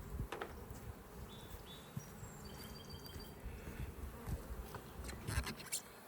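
Honeybees buzzing around their hive, a steady hum from a colony disturbed by being opened. A few sharp clicks and rustles come near the end.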